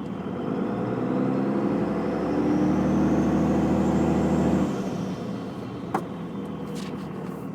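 2001 Dodge Ram 2500's Cummins 5.9-litre inline-six turbodiesel, straight-piped to a stack, revving up, holding high revs for a few seconds, then dropping back to idle about four and a half seconds in. A high turbo whistle, louder with the compressor's silencer ring removed, rises with the revs and falls away after.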